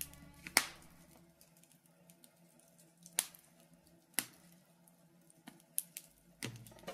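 Wood fire in a fireplace crackling, with scattered sharp pops a second or so apart over a faint hum. The next song's first notes come in near the end.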